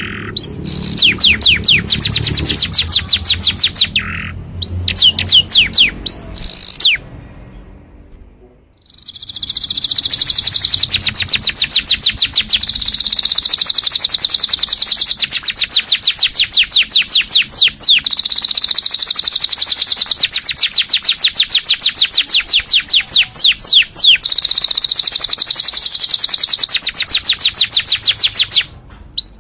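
Domestic canary singing: long, fast trills of rapidly repeated high falling notes. There is a brief pause about eight seconds in and another just before the end.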